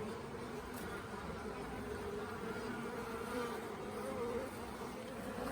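Swarm of honey bees buzzing all around, a steady hum that wavers a little in pitch as many bees fly close by.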